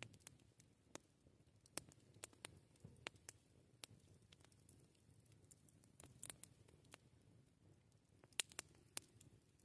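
Wood campfire crackling faintly: sparse, irregular sharp pops and snaps over a soft low rumble, with the loudest pops near the end.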